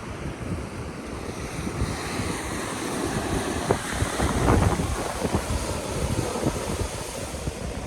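Ocean surf washing on the beach, with gusts of wind buffeting the microphone in low rumbles; the rush swells about four seconds in.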